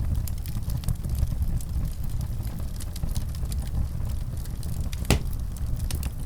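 Wood fire crackling in a fireplace: a steady low rumble under scattered small crackles, with one sharp pop about five seconds in.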